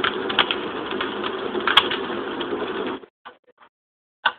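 Avantek white noise machine playing its fireplace sound: a steady hiss with irregular crackling pops. It cuts off about three seconds in, and the machine's clock sound begins, a tick-tock about once a second.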